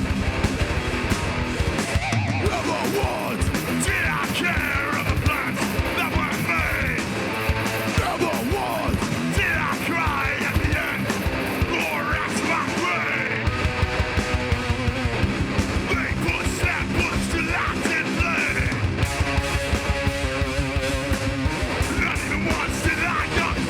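Hardcore band playing live: heavily distorted electric guitars and bass over fast, pounding drums, with guitar pitch glides squealing high above.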